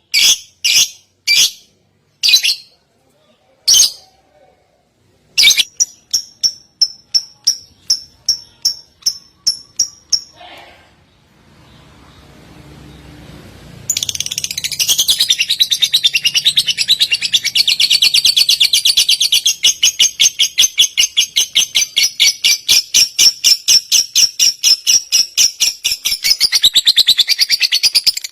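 Songbird calls: a few loud separate high notes, then a run of short high chips about two a second that stops about ten seconds in. After a short lull, a fast, dense repeated trill starts about fourteen seconds in and runs on.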